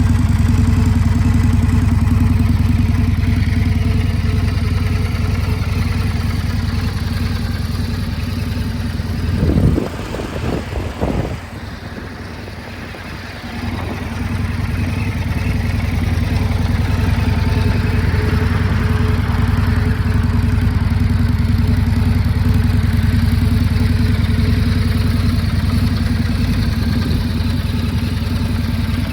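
2026 Indian Scout Bobber's V-twin engine idling, blipped twice about ten seconds in. It drops quieter for a couple of seconds, then settles back to a steady idle.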